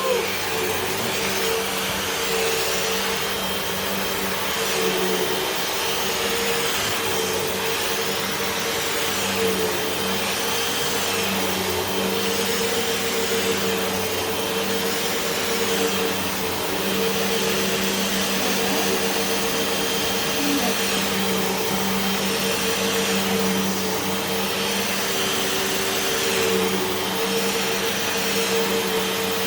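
Hoover WindTunnel 2 Whole House Rewind upright vacuum running steadily, a constant motor drone with a rushing hiss that swells and fades every couple of seconds as it is pushed back and forth over the floor.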